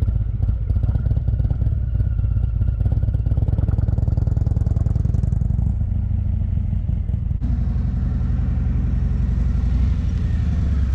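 Motorcycle engine running steadily at low speed, a low, even pulsing note. About seven seconds in the sound changes abruptly to a deeper steady engine note.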